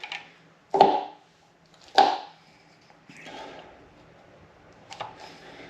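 Tools and metal parts being handled on a Subaru EJ25 cylinder head while the camshaft caps go on: two sharp knocks about a second apart, a short scrape, then a lighter tick near the end.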